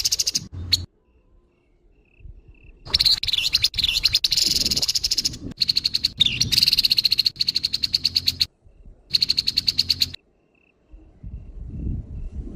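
Grey-headed babbler giving harsh, rattling calls: several bursts of rapid pulses, each a few seconds long, broken by short pauses.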